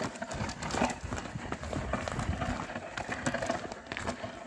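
Oxen and a ploughing woman walking on field soil: irregular footfalls, hoof thuds and scuffing.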